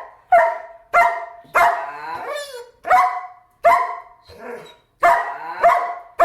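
German Shepherd dog barking repeatedly, about one bark every 0.7 seconds, with one longer, wavering bark about two seconds in.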